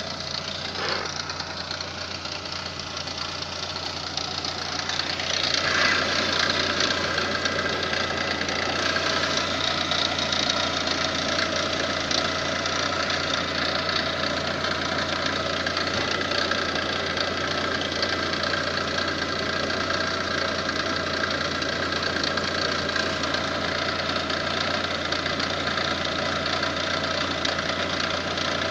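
Lada Granta liftback running, with a steady mechanical hum and whine from its gearbox, which the owner takes for a worn input shaft bearing. It grows louder and rises slightly about five seconds in, then holds steady.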